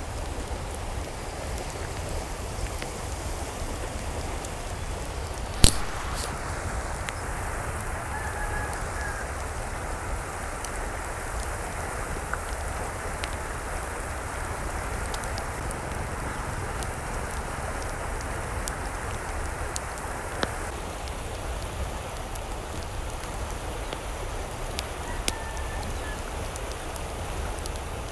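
Rain falling in a steady patter, with a sharp click about six seconds in and two brief high chirps.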